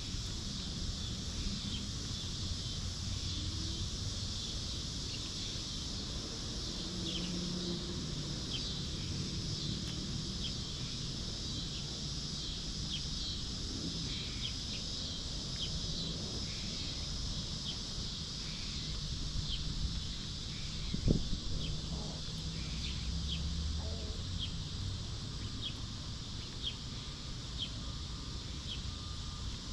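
Orchard ambience with free-range hens: a steady high hiss with a small bird chirping over and over, and soft low clucking from the hens. One sharp knock sounds about two-thirds of the way through.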